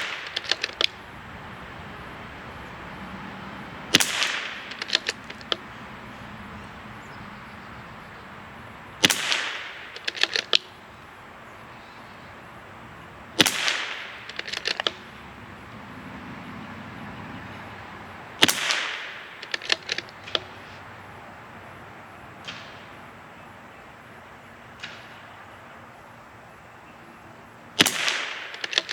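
CZ 457 MTR bolt-action .22 LR rifle firing Lapua Center X match ammunition: five single shots, about four to five seconds apart, with a longer gap before the last. Each shot is followed within a second by a quick run of metallic clicks as the bolt is cycled.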